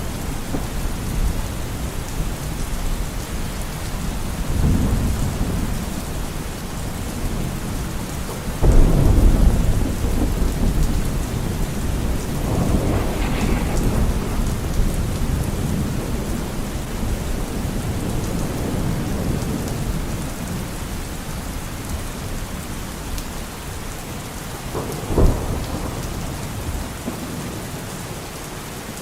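Steady rain with rolling thunder: a loud thunderclap about nine seconds in that rumbles on for several seconds, and a short sharp crack of thunder near the end.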